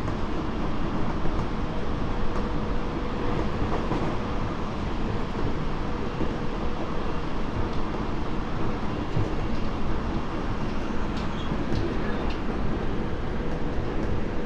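Tobu 30000 series electric train, Hitachi IGBT-VVVF motor car, running at a steady speed, heard from inside the car: an even rumble of wheels on rail with a faint steady whine and a few light ticks near the end.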